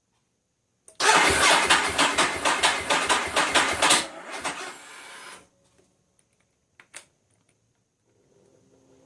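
2011 Ducati 1198 SP's L-twin engine cranked on the electric starter for about three seconds in a rhythmic chug, not catching, then spinning down: the bike is hard to start. A sharp click follows a few seconds later, and a faint steady hum starts near the end.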